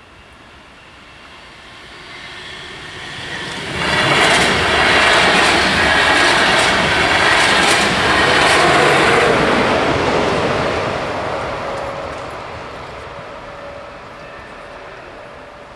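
A regional train of n-Wagen (Silberling) passenger coaches passes close by on the line. It grows louder from about a second in and jumps to full loudness about four seconds in. It stays loud for about six seconds, with sharp clicks from the wheels, then fades away.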